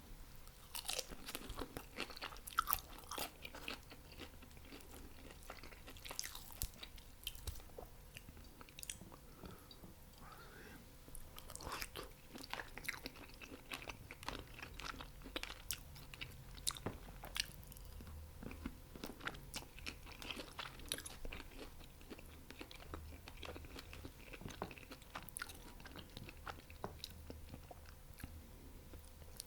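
Close-miked eating sounds: a person biting, crunching and chewing fried chicken wings and chaufa fried rice, with many irregular sharp wet clicks and crunches. A faint steady hum sits underneath.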